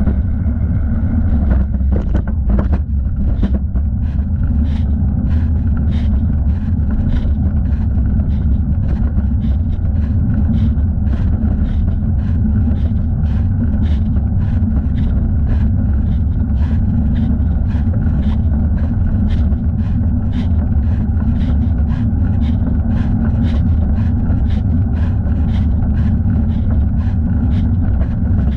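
Heavy, steady wind rumble on the microphone of a thigh-mounted camera on a bicycle being ridden. About two seconds in, a regular ticking starts, roughly twice a second, and keeps going.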